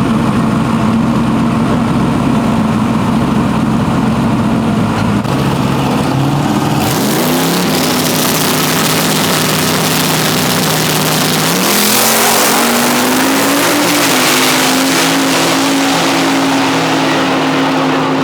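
A race truck's engine idling, then revving up about six seconds in and running hard at high revs. Its pitch steps up twice, under a loud rushing noise.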